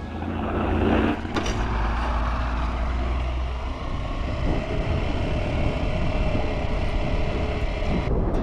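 KTM Adventure motorcycle riding on the road: engine running under wind and road noise, with a heavy low rumble in the first few seconds.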